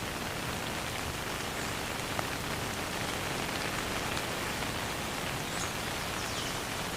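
Steady rain falling, an even hiss with scattered small drop ticks and no thunder.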